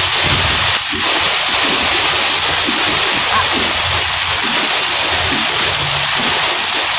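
Heavy rain and strong thunderstorm wind beating on a car, a loud steady rush.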